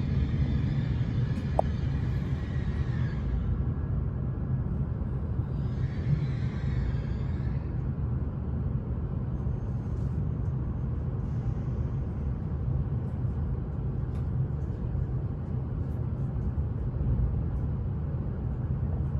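Shinkansen train running, a steady low rumble with a hiss that rises over it during the first few seconds and again about six seconds in.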